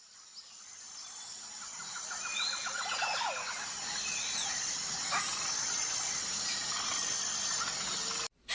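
Outdoor natural ambience: scattered bird chirps and a brief rapid trill over a steady high-pitched background hiss. It fades in at the start and cuts off abruptly near the end.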